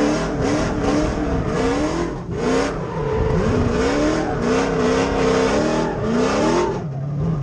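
6.0-litre LQ9 V8 in an LS-swapped Nissan 240SX drift car revving up and down in quick repeated rises while drifting. Near the end it drops to a steady low idle.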